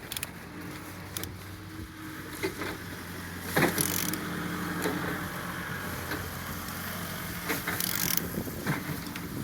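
Used A20DTH 2.0 diesel engine being turned over by hand for a compression check: scattered clicks and knocks from the turning, with two louder hissing rushes about four seconds apart, over a steady low hum. It turns freely and holds good compression.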